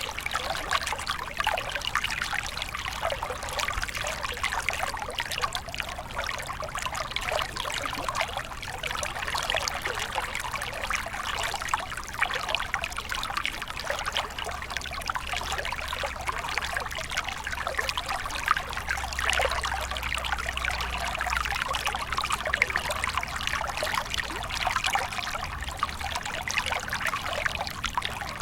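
Small stream of water flowing and trickling over stones, a steady babble of many small splashes.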